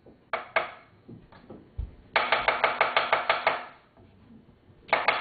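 Kitchen knife chopping an onion on a cutting board: two single chops, then a fast, even run of chops about two seconds in, and another fast run starting near the end.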